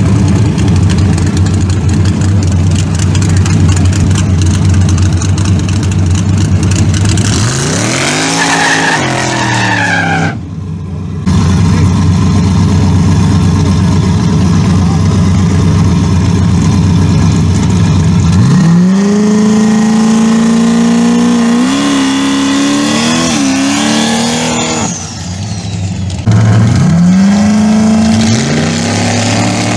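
Drag-car V8 engines running at a steady low idle, then revved: a quick rev about eight seconds in, and from about eighteen seconds the revs climb and are held high on the line, then climb and hold again near the end.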